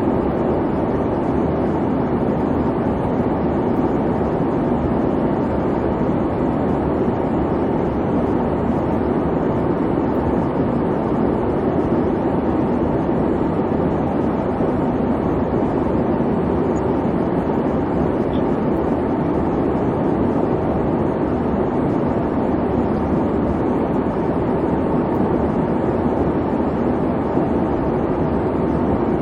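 Airplane cabin noise: the steady, unbroken low rumble of the engines and cabin, with no change in level or pitch.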